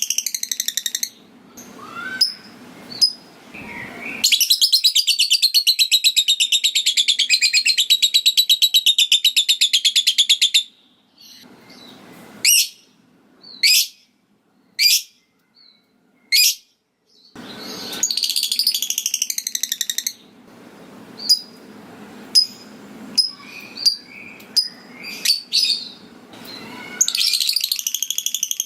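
Lovebird giving a long, rapid chattering trill ("ngekek") of about six seconds, with shorter trills before and after it and single sharp, high chirps in between.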